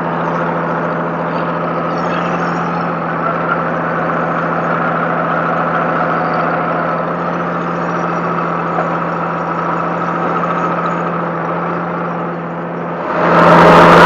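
Vehicle engine idling with a steady, even hum. About 13 seconds in, a much louder rush of noise comes in suddenly.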